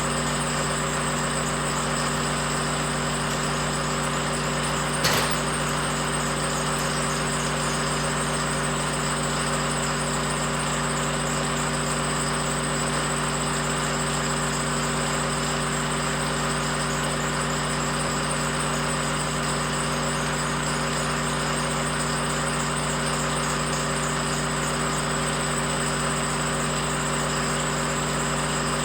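A machine running at a steady speed, a constant hum that does not rise or fall, with one sharp click about five seconds in.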